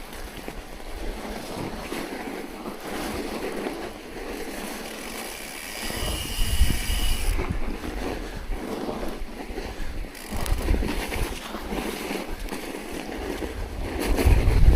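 Wind buffeting the microphone in uneven gusts of low rumbling, strongest about six seconds in and again near the end.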